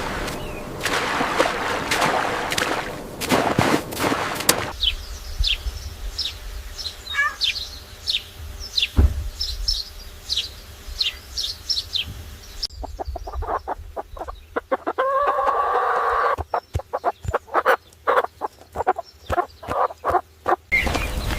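A run of edited farm-bird clips: first a noisy stretch with sharp knocks, then from about five seconds in high, short, falling peeps repeated in quick series, and from about thirteen seconds in clucking with many sharp clicks.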